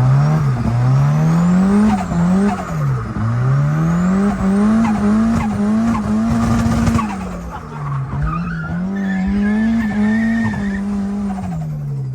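Turbocharged Audi 1.8T four-cylinder drift car being driven hard, its engine revving up and down over and over with tires squealing as it slides. The revs hold high through the middle, then steady and wind down near the end.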